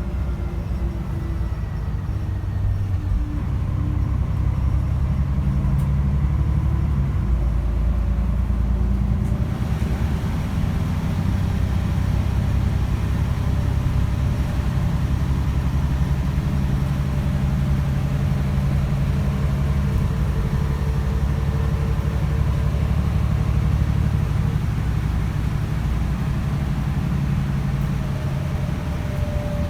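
Mercedes-Benz O405 city bus with a three-speed Voith automatic gearbox under way, heard from on board: the six-cylinder diesel runs with a steady low rumble. Its note falls over the first few seconds, then grows louder as the bus pulls. A thin whine climbs slowly in pitch through the second half.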